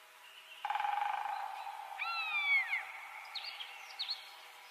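Wild bird calls: one falling, whistled call about two seconds in, then a few short chirps, over a steady buzzing hum that starts about half a second in.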